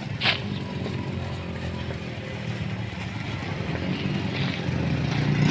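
Engine of a heavy road-construction machine running steadily, growing louder toward the end, with one sharp metallic clank just after the start.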